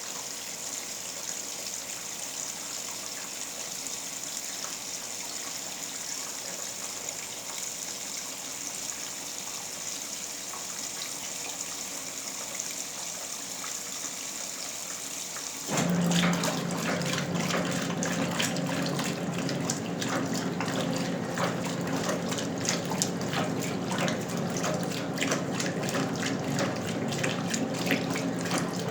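Westinghouse Lavínia washing machine from 1977, filling with water: a steady hiss of water pouring into the tub. About halfway through the hiss stops, the motor comes on with a low hum, and the water starts sloshing and splashing.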